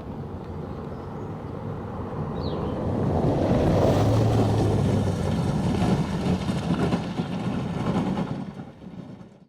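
Motor vehicle noise, growing louder about three seconds in and fading out near the end.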